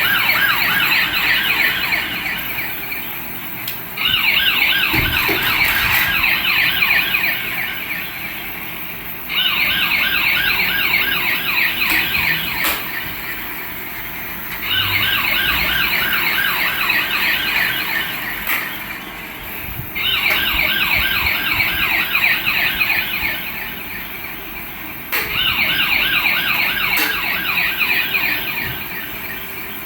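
Toy police car's electronic siren sounding a fast warble, restarting loudly about every five seconds and fading off before each restart.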